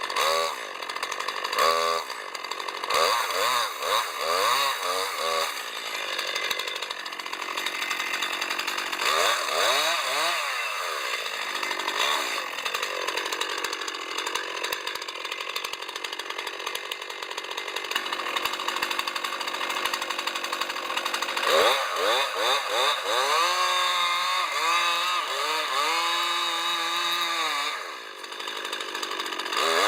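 Chainsaw engine revving and cutting wood, its pitch rising and falling repeatedly as the throttle is worked.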